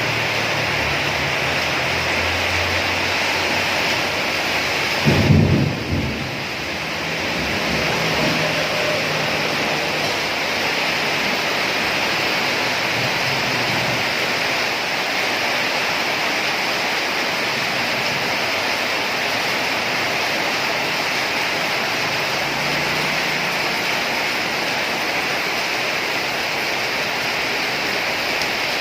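Steady heavy rain falling, with a short low crack of thunder about five seconds in.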